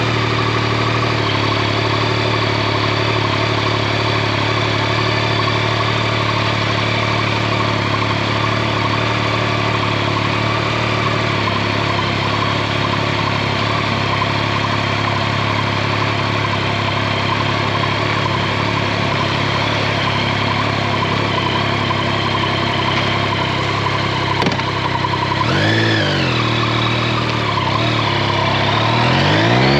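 Yamaha Tracer 9 GT's three-cylinder engine running steadily at low revs. About 26 s in it gives a brief blip of the throttle, and near the end the revs climb as the bike pulls away.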